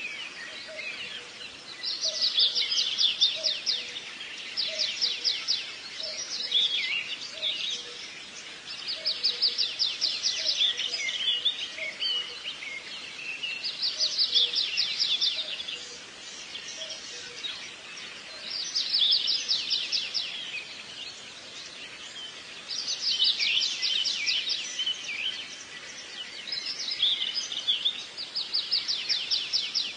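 A songbird singing repeated phrases of rapid trills and chirps, each phrase a second or two long and coming every few seconds.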